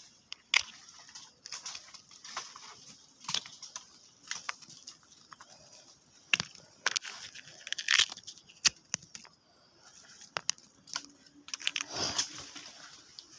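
Walnuts being gathered by hand: irregular clicks, cracks and crunching rustles as the nuts and dry husks or leaves are handled, with louder handfuls about two-thirds of the way in and near the end.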